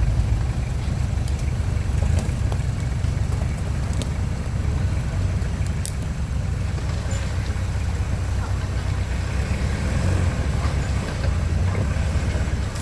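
Off-road 4x4 vehicle engine running steadily at low revs, with a few scattered sharp clicks and knocks.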